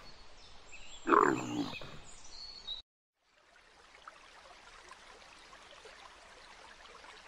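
A dromedary camel gives one short, deep groaning call about a second in, with fainter noises trailing after. It cuts off abruptly a little before halfway, and a faint steady hiss follows.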